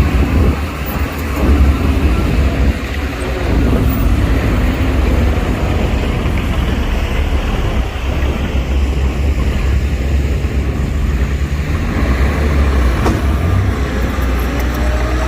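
Heavy diesel earthmoving machinery running under load, a deep, steady rumble with the engine pitch shifting slightly. There is a single sharp click about 13 seconds in.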